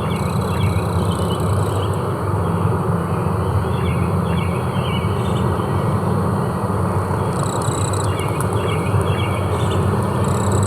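Forest ambience: a steady low rumble under a constant haze, with insects buzzing and clusters of short bird chirps. A high, steady insect buzz comes in about seven seconds in.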